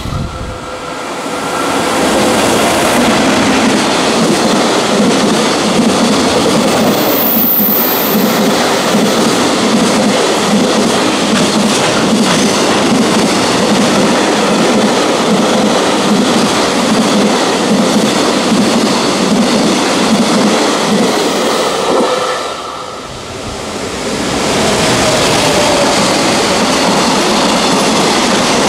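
Freight train passing at speed: a steady rumble with the repeated clatter of wheels over rail joints. The noise dips briefly about three-quarters of the way through, then comes back as loud as before.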